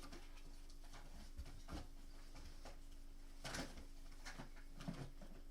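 Scattered light clicks and rustles of small makeup items being picked up and set down while searching through a box of products, over a steady low electrical hum.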